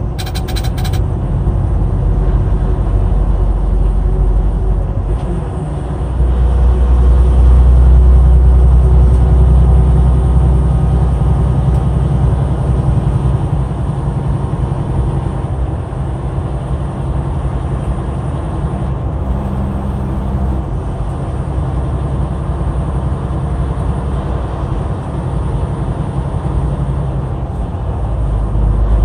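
Truck engine and tyre noise heard from inside the cab while it pulls a loaded trailer: a steady low rumble that swells louder about six seconds in for a few seconds.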